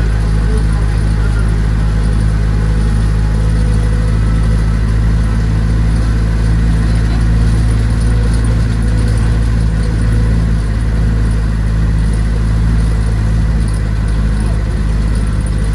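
An engine running steadily at a constant speed, close to the microphone, with an even low hum that does not change.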